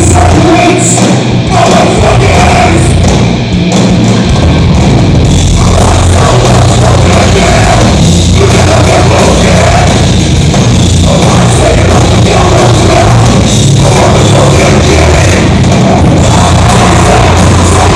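Heavy metal band playing live with drum kit, loud and constant.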